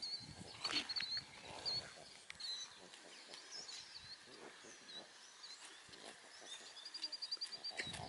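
Small songbirds chirping, with a rapid high trill about seven seconds in, over soft low scuffs and rustles in the grass.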